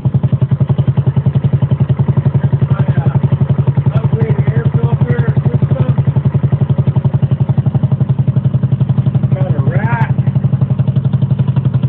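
2022 Amigo scooter engine idling with a steady, even, rapid pulsing beat, fitted with an upgraded carburetor, exhaust and air intake.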